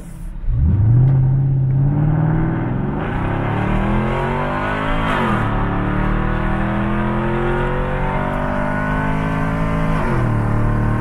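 Car engine heard from inside the cabin, accelerating hard: its pitch climbs from about half a second in, drops at an upshift about five seconds in, climbs again, and drops at another shift near the end before holding steady.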